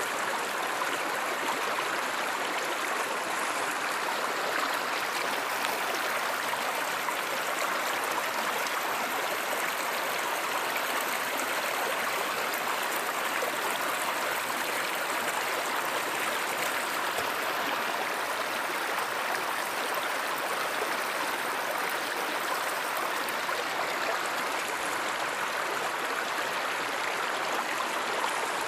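Steady rushing and babbling of a stream or river.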